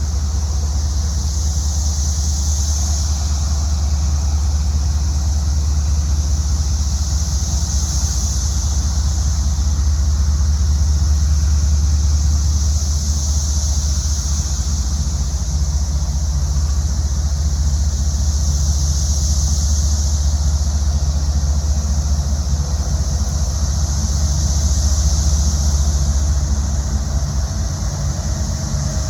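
A chorus of 17-year periodical cicadas, a high buzzing that swells and fades every five or six seconds, over the loud, steady low drone of a freight train's diesel locomotives.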